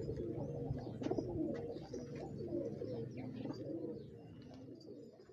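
Several homing pigeons cooing together in overlapping low, warbling calls, with a few faint higher chirps; the sound fades away near the end.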